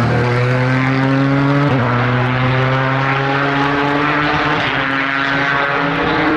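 A race car's engine pulling under acceleration, its pitch climbing steadily. About two seconds in the pitch drops sharply at a gear change, then climbs again.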